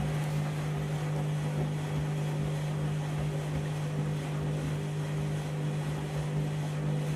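Candy washing machine running, a steady mechanical hum with a whir of noise over it.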